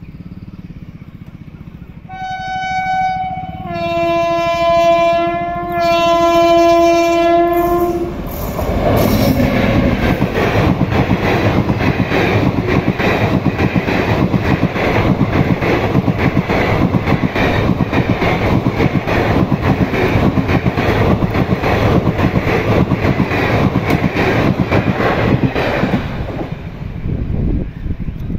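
Express train's locomotive horn sounding three blasts, the first short and higher, then two longer, lower two-tone blasts. The train then passes at speed with a loud rumble and a rapid, regular clickety-clack of wheels over rail joints, fading out near the end.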